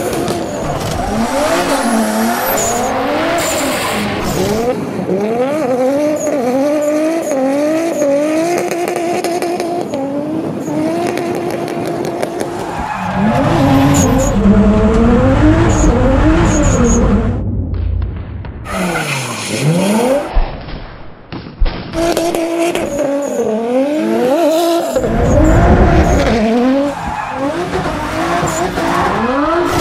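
Toyota Supra drift car's engine revving up and down hard as the throttle is worked through slides, over squealing tyres. About two-thirds of the way through, the sound drops away briefly with a falling then rising swoop, then the revving and tyre noise return.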